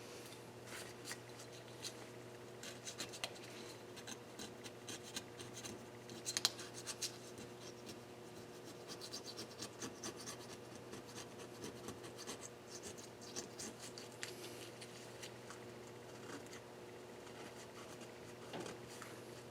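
Faint, irregular scraping and scratching with small clicks, from hand cleaning work on a Nissan KA24DE cylinder head, busiest a third of the way in; a steady low hum runs underneath.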